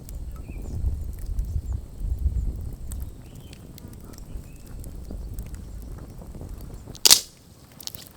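Wood campfire burning with scattered crackles and a low rumble over the first few seconds. About seven seconds in comes a single loud pop, with a smaller one just after.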